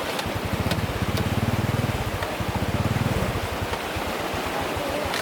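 Steady rush of flowing floodwater, with a low, fast-pulsing rumble that swells over the first second, holds for about two seconds, then fades out.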